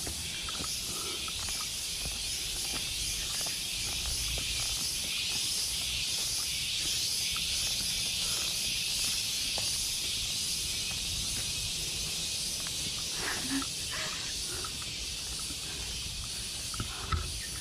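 Jungle insect chorus: a steady, high-pitched shrill drone that runs on without a break, with a few faint ticks and a low rumble beneath.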